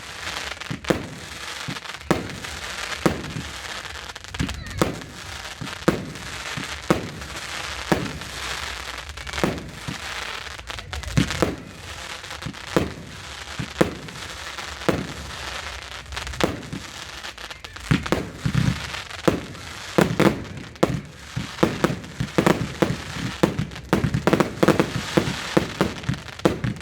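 Aerial fireworks in a display: a steady run of bangs and shell bursts over continuous crackling, with the bangs coming thick and fast in the last third.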